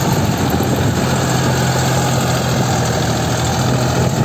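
Deutz-Fahr Agrolux 50 4WD tractor's diesel engine running steadily at an even, low pitch.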